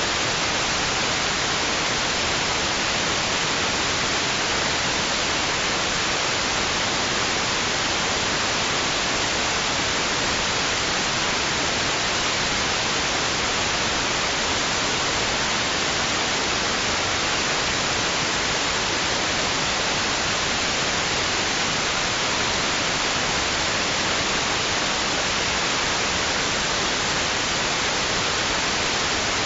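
Steady white noise: a constant, even hiss, brightest in the upper range, with no swells, breaks or changes.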